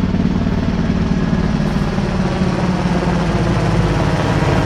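Sikorsky CH-148 Cyclone military helicopter running close by, its twin turboshaft engines and the rapid, steady chop of its rotor blades.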